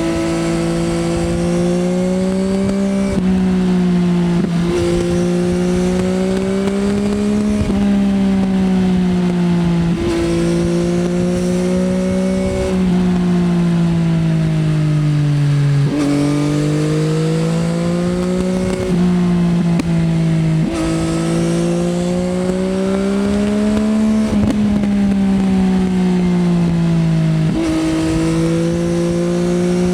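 Yamaha XSR900's three-cylinder CP3 engine through an Akrapovič Racing Line exhaust, ridden hard: the engine note climbs and falls with the throttle and is broken by quick gear changes every few seconds.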